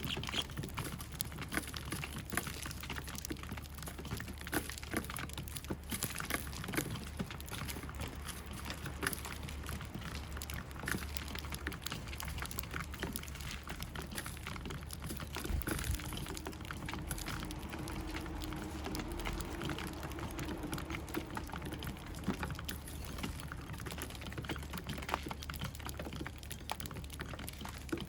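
Eurasian tree sparrows feeding: a steady patter of small, irregular taps and clicks.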